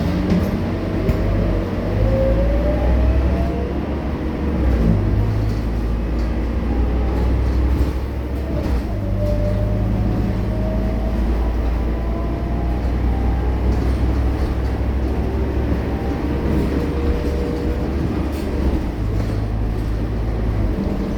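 Scania K230UB bus diesel engine and drivetrain running under way, a steady low rumble whose note drops and climbs again several times as the bus changes speed, with faint rising whines over it.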